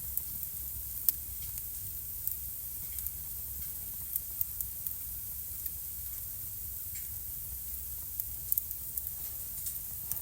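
Wood fire burning in a home fireplace: a steady soft hiss and low rumble with irregular sharp crackles and pops, the loudest pop about a second in and a quick cluster of pops about eight and a half seconds in.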